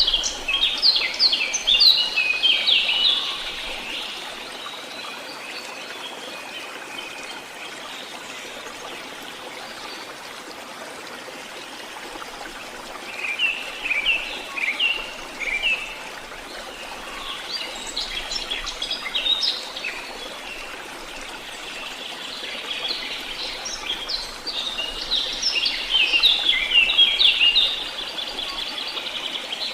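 Songbirds singing in four bursts of rapid chirping phrases, over a steady hiss of running water.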